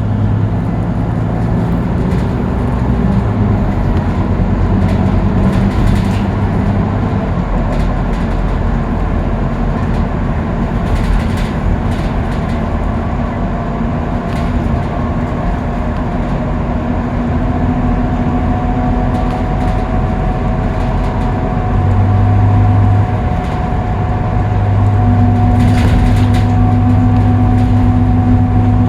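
Scania K310UB bus's nine-litre five-cylinder diesel engine running steadily at freeway speed, with road noise and occasional light rattles. The engine drone grows louder and deeper about two thirds of the way in and again shortly after, with a faint whine holding steady above it.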